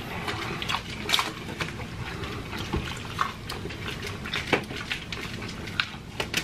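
Close-miked chewing and eating of fried chicken: wet mouth smacks and scattered short crisp clicks of biting and chewing.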